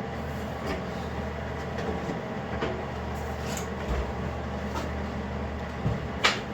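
Steady low machine hum with light knocks and clicks about once a second, and a sharper knock near the end.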